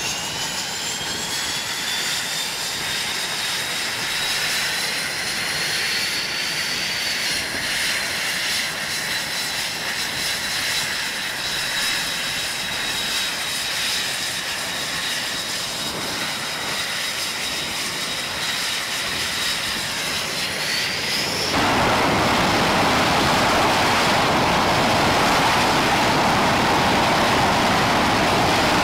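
F/A-18 jet engines running with a high turbine whine made of several tones that rise at first, then hold steady. About 21 seconds in the sound changes suddenly to a louder, steady rushing noise.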